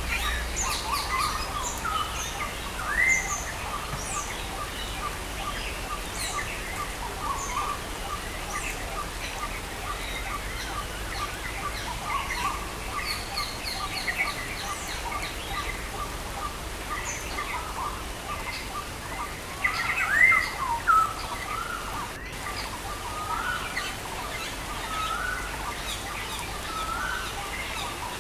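Several songbirds chirping and calling over a steady hiss of rain. A long run of evenly repeated short notes fills the first half, and a louder swooping call comes about twenty seconds in.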